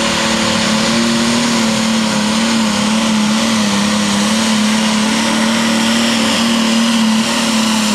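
Super stock pulling tractor's turbocharged diesel engine running loud at high, nearly steady revs, its pitch wavering slightly as it works under load.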